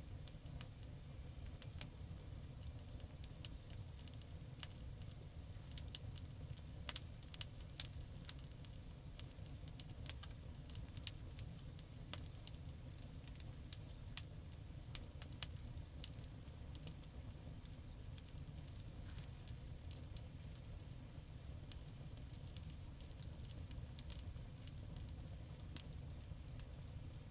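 Campfire crackling: irregular sharp snaps and pops, a few louder ones now and then, over a steady low rumble.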